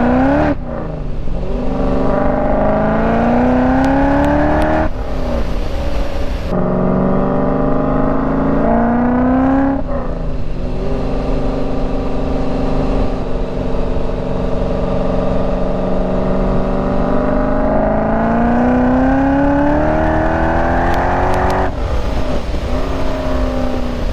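Supercharged 408 LS V8 with a Summit Racing Pro LS 8722R1 cam, running through headers and a Corsa exhaust, revving up in pitch in several long climbs. Short, rougher breaks separate the climbs, with steadier stretches between.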